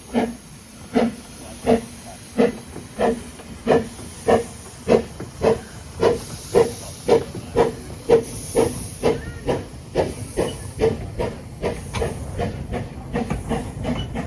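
Narrow-gauge steam locomotive chuffing as it pulls away, its exhaust beats quickening from under two a second to three or four a second, over a steady steam hiss.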